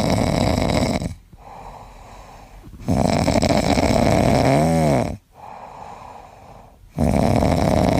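Loud, rough snoring in long drawn breaths about four seconds apart, with quieter breaths between them. One snore ends with a brief squeaky whistle that rises and falls.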